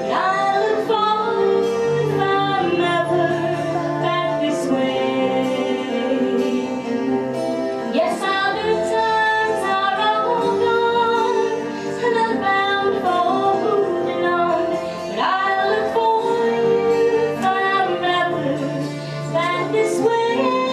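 Live band music with a woman singing a slow melody over instrumental accompaniment.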